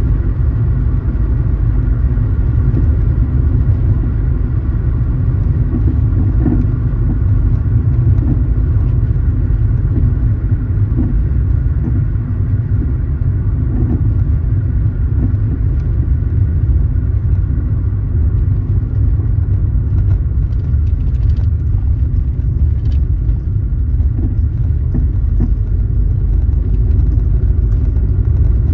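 Car driving along: a steady low rumble of engine and road noise, without letup.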